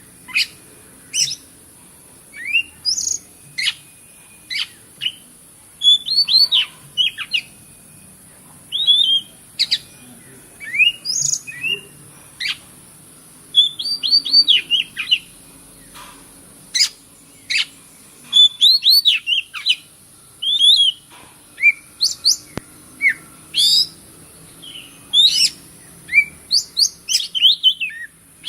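Oriental magpie-robin (kacer) singing: a varied run of short whistles, chirps and sweeping notes in quick bursts with brief pauses between phrases.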